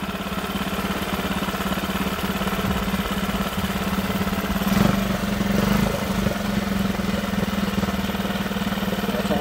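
Lehr 5 hp propane-fuelled four-stroke outboard motor idling steadily after a fresh start, with a brief louder surge about halfway through.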